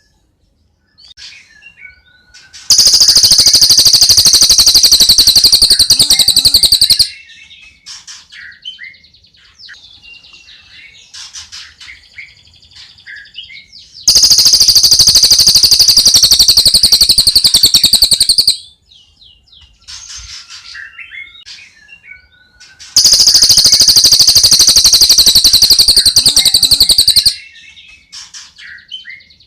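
Birdsong from a cililin and a tengkek buto. A very loud, fast, high-pitched trill comes in three bouts of about four seconds each. Between the bouts are softer, varied chirps and short whistles.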